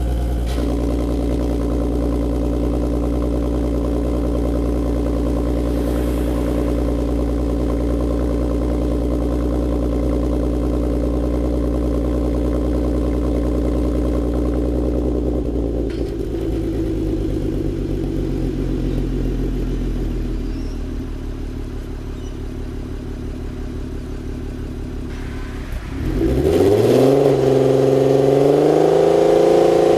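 Audi TT's swapped-in 3.6-litre VR6 engine running through a Varex valved exhaust while driving. It holds a steady note, then eases off and goes quieter. About four seconds before the end it accelerates, rising sharply in pitch and getting louder, then holds a steady higher note.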